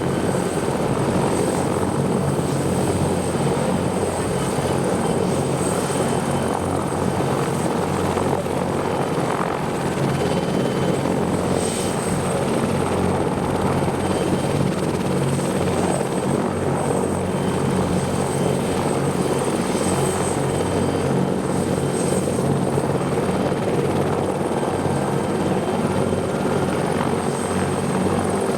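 Bell 412EP helicopter running steadily, its twin Pratt & Whitney PT6T Twin-Pac turbines and rotor making a constant drone with a thin high whine on top.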